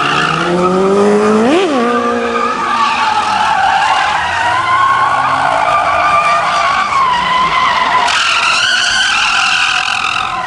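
A car's tyres squealing steadily as it slides under power, with the engine revving sharply up and back down about a second and a half in.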